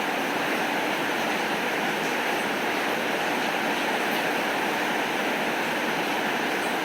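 Steady rainfall, an even rushing hiss with no let-up, with a few faint ticks now and then.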